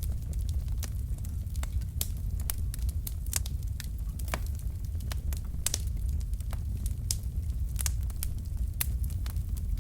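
Wood fire burning in a fireplace: a steady low rumble of flame with irregular sharp crackles and pops from the burning logs, several a second.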